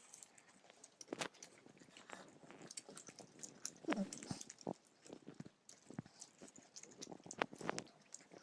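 Close-up chewing and biting of chicken momos: irregular wet mouth clicks and smacks, with a short falling voiced sound about four seconds in.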